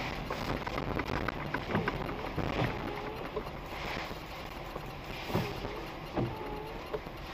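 Outdoor noise in the rain: a steady hiss of rain and wind on the microphone, broken by frequent short knocks and a few brief squeaky tones that dip and rise again.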